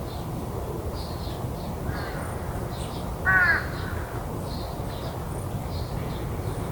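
A crow caws once, loud and short, about halfway through, after a fainter call a second or so before it. Faint high chirps repeat over a steady low background hum.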